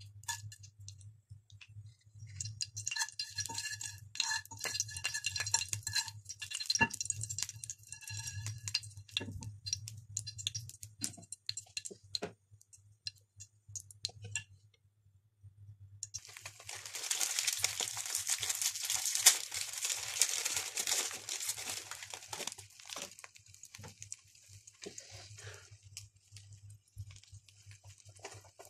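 Whole spices clicking and crackling in a frying pan of hot water, with light clinks and ringing. About halfway through, eggs go into the pan and set off a loud sizzling hiss that lasts several seconds, then settles to a lighter sizzle. A steady low hum runs underneath.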